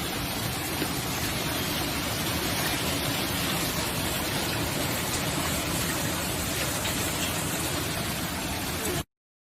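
Hail pelting down hard in a dense, steady clatter. It cuts off abruptly about nine seconds in.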